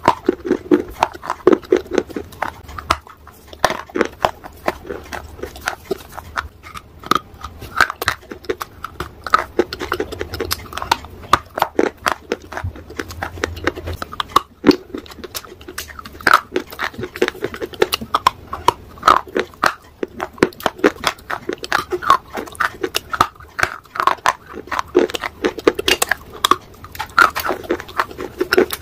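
Close-up crunching and chewing of a dry grey shale bar, bitten off a slab: a dense, continuous run of sharp crunches mixed with chewing sounds.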